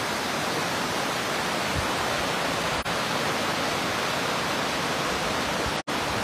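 Steady rushing of a flooded, rain-swollen river in spate, a dense even wash of water noise. It breaks off for an instant near the end.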